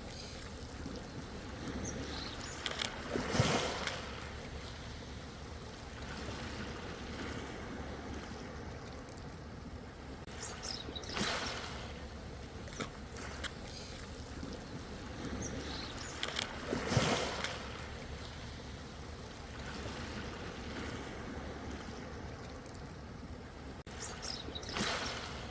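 Ocean waves breaking and washing in four times, some six to eight seconds apart, over a steady rushing wash of surf.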